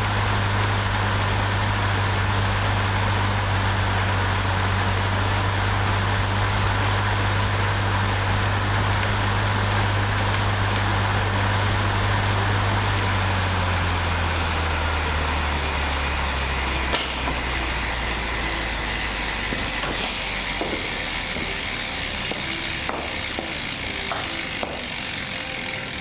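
CycleOps SuperMagneto Pro magnetic bike trainer running with the tyre on its roller: a steady low hum with hiss that, about halfway through, drops in pitch and fades as the wheel and flywheel spin down. A few light clicks come in the second half.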